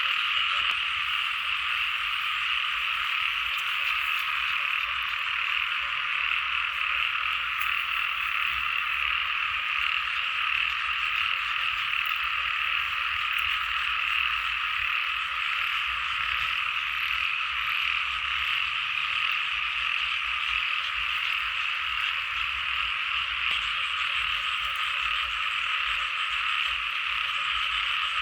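Steady, unbroken chorus of many frogs calling together.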